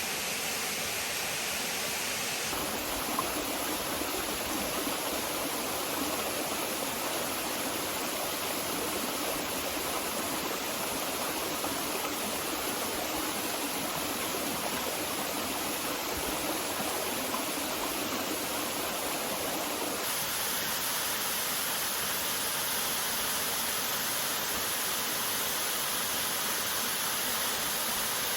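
Waterfall pouring into a rainforest creek: a steady rushing of falling water. Its tone shifts slightly and abruptly twice, once about two seconds in and again near the end.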